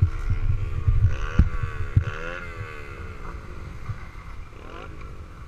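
Trail motorcycle engine revving, its pitch rising and falling several times and easing off later on, with wind buffeting the microphone.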